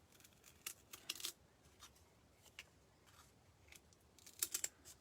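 Faint, scattered light clicks and taps from handling craft sticks and scissors on a work table, a few at a time, with a quicker cluster near the end.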